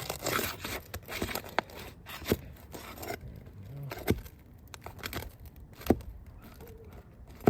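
Roofing shingle and underlayment being cut and torn apart by hand: scraping and tearing for the first second or so, then a few scattered sharp clicks.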